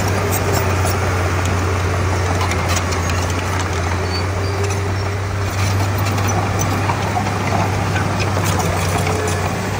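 Heavy diesel engine of earthmoving machinery running steadily, with a constant low hum.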